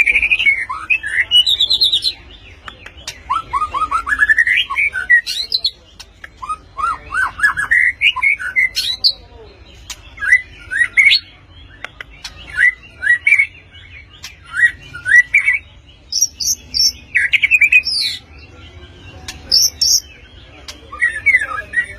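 White-rumped shama (murai batu) singing in repeated bursts of loud, rising and falling whistled phrases, with short pauses between them and a few very high, thin notes in the later part.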